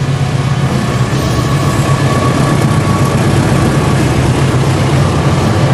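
Diesel-electric locomotives and a passenger train passing close on parallel tracks: a steady, loud engine rumble mixed with the rolling noise of the coaches, while a container freight train's locomotive draws near on the next track.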